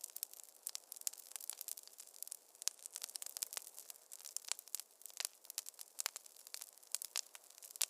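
Fireplace fire crackling: many quick, irregular snaps and pops, several a second, over a faint hiss.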